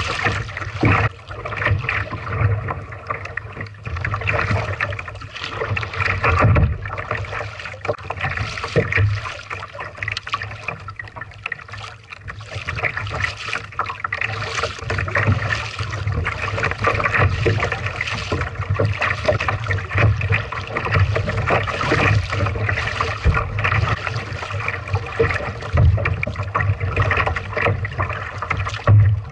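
Paddle strokes splashing and water lapping against the hull of a Lifetime Tamarack Pro kayak, in an uneven run with frequent low thumps.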